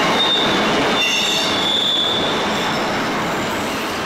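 Wagons of a container freight train rolling past on the rails, the rumble slowly fading as the last wagons go by. A high wheel squeal rises over it briefly near the start and again for about two seconds from a second in.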